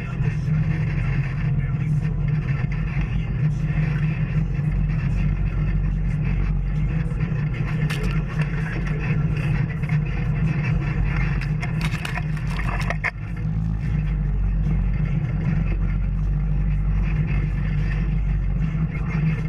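Off-road vehicle engine running steadily on a trail, with a few sharp knocks and scrapes from the ride about 8 seconds in and again around 12 to 13 seconds.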